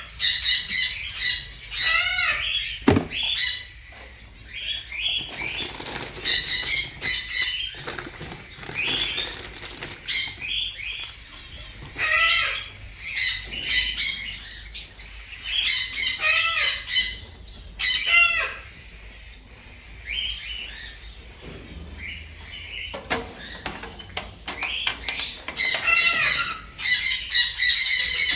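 Parrots calling in repeated harsh, squawking bursts, several calls in quick succession with short pauses between clusters, demanding food. There is a single knock about three seconds in.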